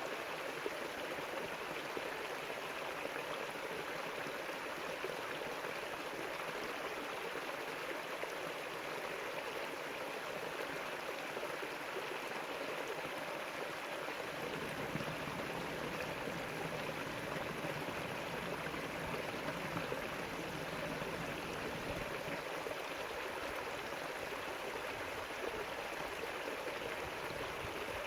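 River water flowing with a steady rushing sound. A low rumble joins it about halfway through and lasts several seconds.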